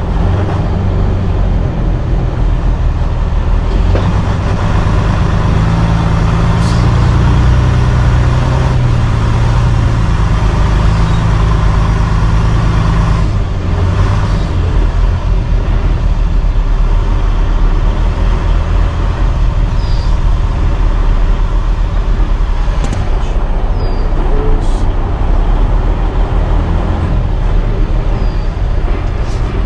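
Semi-truck's diesel engine running under way, a steady low drone. The engine note gets louder and higher about four seconds in and drops back around thirteen seconds.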